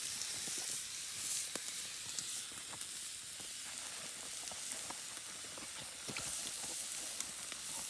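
Meat sizzling on a grill over a campfire: a steady high hiss with scattered small pops and crackles.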